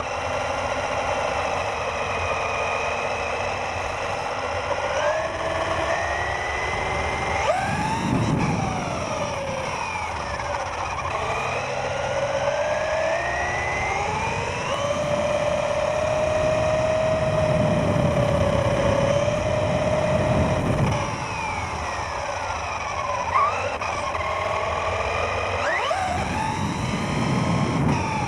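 Radio-controlled car's motor whining, its pitch rising and falling over and over as the throttle is worked. Several stretches of low rumble come in along the way.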